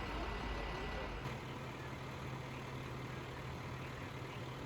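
Steady noise of vehicle engines and traffic. About a second in, the sound changes abruptly and a low steady engine hum takes over.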